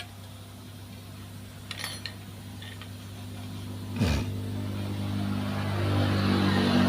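An engine running steadily and growing louder toward the end, with a single knock about four seconds in.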